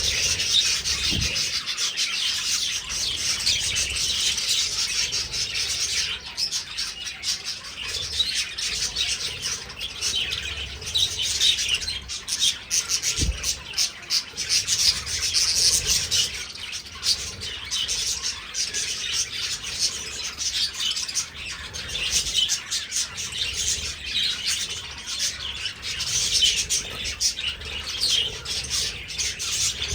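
A flock of budgerigars chirping and chattering without a break, a dense high-pitched twittering with occasional squawks. Two dull low thumps, one about a second in and one near the middle.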